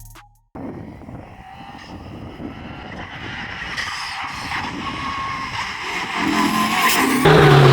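Lancia Delta rally car engine running and growing steadily louder, then suddenly much louder and closer near the end, with a strong, steady engine note.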